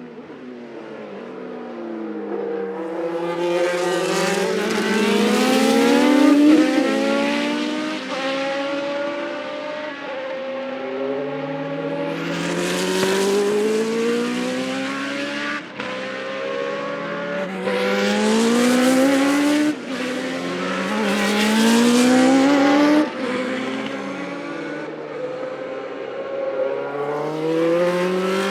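Classic Formula 1 racing engines accelerating hard at high revs. The pitch climbs and drops back again and again as the cars change up through the gears and pass by.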